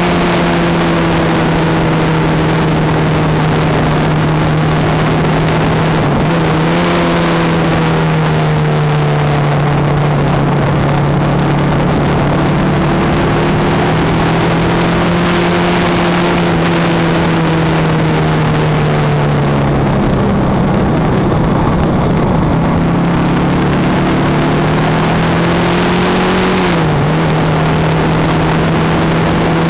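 Kawasaki ER-5's parallel-twin engine running at steady road speed with wind rush over the microphone. Its pitch jumps briefly about six seconds in and again near the end, and sags for a couple of seconds past the two-thirds mark.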